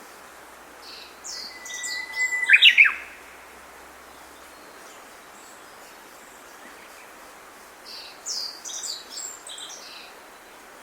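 A songbird sings two phrases of quick chirps and sweeps, one about a second in and a second near the end, over a steady background hiss.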